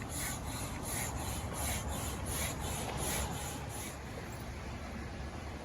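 Manual air pump inflating a rubber boat: a rhythmic series of hissing strokes, about three a second, that stop about four seconds in.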